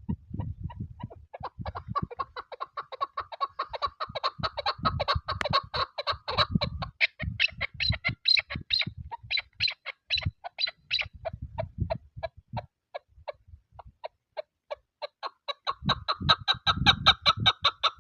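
Chukar partridge calling: a long run of rapid clucking notes that builds into a fast chatter, thins out after about ten seconds, and starts up again near the end. Wind buffets the microphone in low gusty rumbles underneath.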